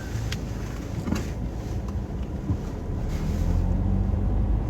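Car engine running with low rumble and road noise, getting a little louder toward the end, with a couple of light clicks near the start.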